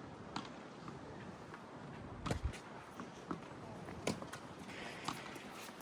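Tennis ball strikes and bounces during a rally: sharp knocks roughly a second apart, the loudest two about two and four seconds in, over a steady hiss of strong wind.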